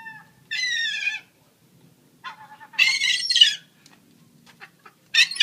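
A young seagull calling three times: high whining cries that fall slightly in pitch. The middle one is longer and harsher than the others.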